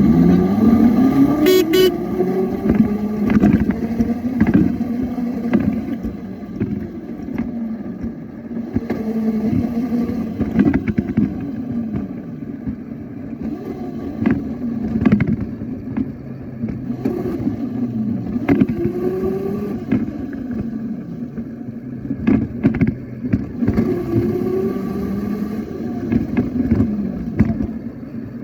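Toy motorbike's engine sound, repeatedly rising and falling in pitch like revving every few seconds, with scattered clicks.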